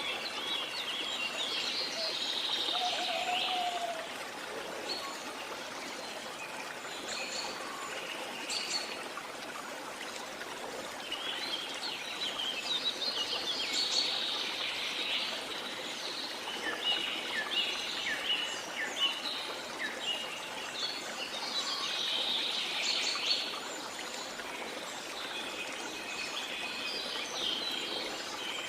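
Several birds chirping and trilling in bursts that come and go, over the steady rush of running water from a waterfall or stream.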